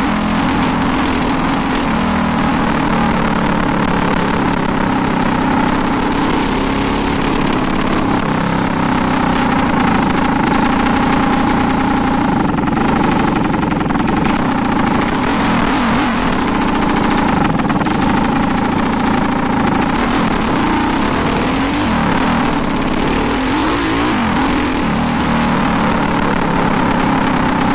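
A 400cc engine running steadily, with small rises and dips in revs.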